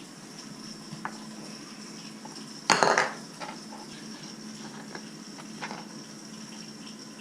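Kitchen dishware being handled: a bowl clatters loudly against other dishes about three seconds in, with a few lighter clinks before and after, over a steady hum.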